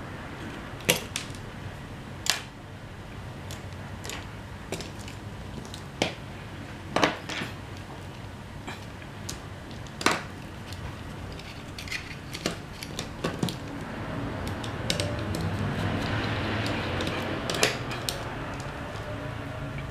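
Scattered clicks and taps of small hard parts and tools being handled, with a steadier noise that swells for a few seconds near the end.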